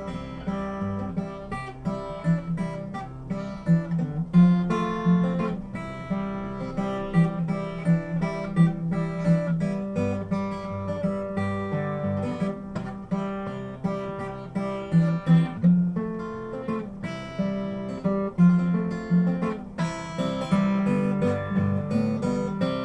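Acoustic guitar instrumental break, picked and strummed in a steady rhythm, with no singing.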